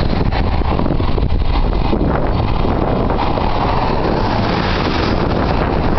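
Strong wind buffeting the microphone: a loud, steady rushing rumble, heaviest in the deep lows.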